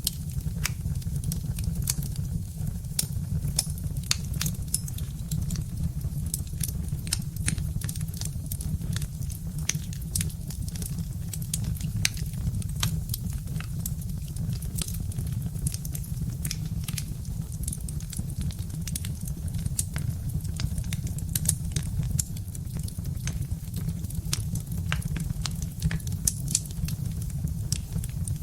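Birch-wood fire burning in a fireplace: a steady low rumble of flame under frequent, irregular sharp crackles and pops from the burning logs.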